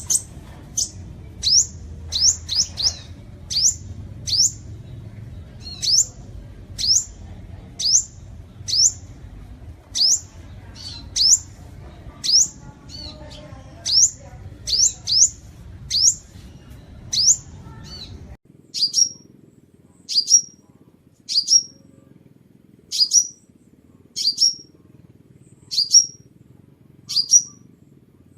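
Sunbird calling: short, high, sharp chips repeated about once a second. A low background rumble cuts out about two-thirds of the way through, and the later chips come a little shorter.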